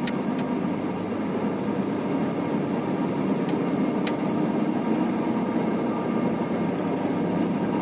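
Heavy truck's diesel engine and road noise heard from inside the cab, running steadily, with a couple of faint clicks.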